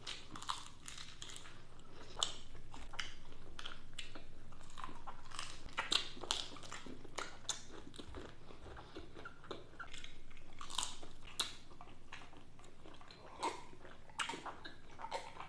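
Close-miked eating sounds: chewing and biting, with many irregular sharp crunching and smacking clicks.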